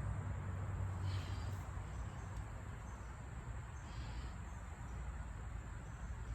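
Faint outdoor background noise with a low rumble and a thin, steady high-pitched hum, with two faint high-pitched sounds about a second and four seconds in.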